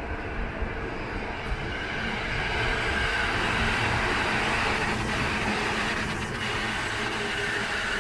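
Electric commuter train running past on the tracks beside the street, a steady rumble and rush of wheels that swells about two seconds in and stays loud.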